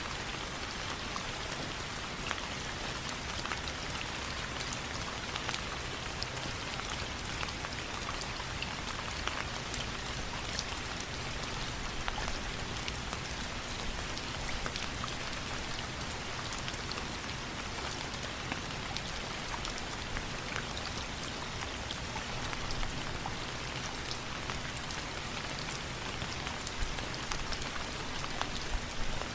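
Steady rain falling on a surface, an even hiss sprinkled with many small sharp ticks of drops.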